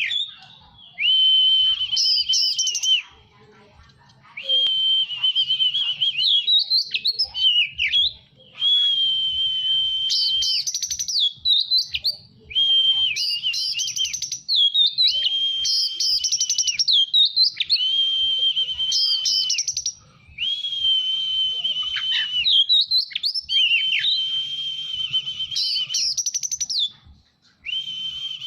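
Songbird singing in repeated phrases about two to three seconds long, separated by short pauses. Each phrase is a long, buzzy held note followed by quick whistled upward and downward sweeps.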